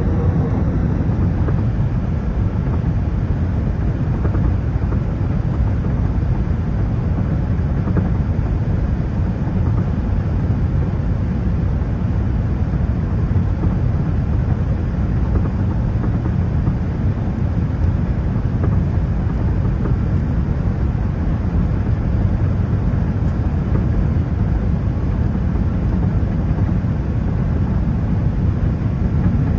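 Steady in-flight cabin noise of an Airbus A380: a deep, even rumble of airflow and engine noise from its Rolls-Royce Trent 900 engines, heard from a lower-deck window seat.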